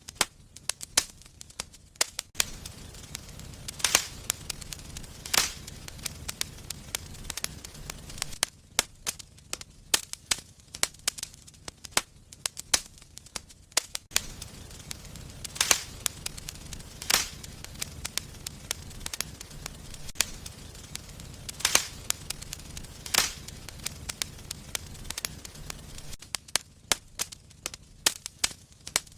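Wood fire in a fireplace crackling, with frequent sharp pops and a few louder snaps, over a low steady rumble of burning that comes and goes.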